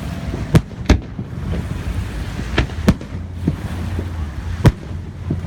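Fireworks exploding in a series of sharp, irregular bangs, about five loud ones and several fainter ones, over a steady low background rumble.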